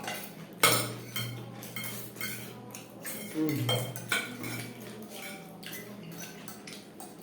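Cutlery clinking and scraping against plates in quick, irregular strikes during fast eating, over a steady low hum.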